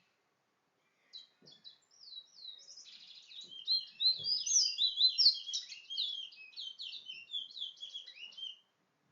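A small songbird singing a rapid, varied warbling song: a few separate notes about a second in, then fast, louder phrases of quick up-and-down notes that stop shortly before the end.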